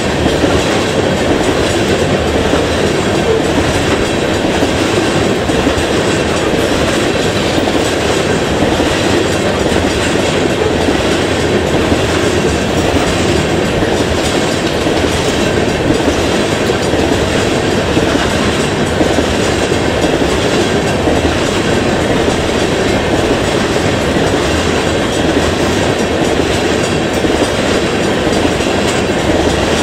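Crude oil tank cars of a long freight train rolling past close by: a loud, steady rumble and clatter of steel wheels on the rails.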